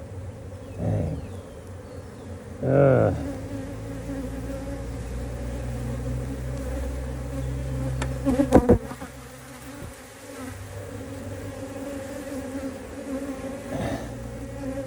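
Many honeybees buzzing steadily around an opened hive. A cluster of sharp knocks about two-thirds of the way through is the loudest sound.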